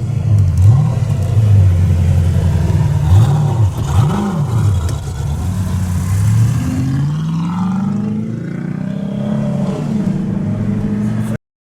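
Saleen S7 Competition's V8 engine being revved while stationary: three quick throttle blips, then a slower climb in revs that is held high until the sound cuts off abruptly near the end.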